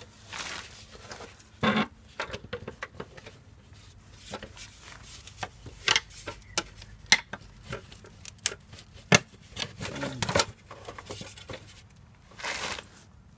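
Dryer vent parts being handled and fitted together by hand: irregular clicks, knocks and scraping, with a few sharper knocks scattered through.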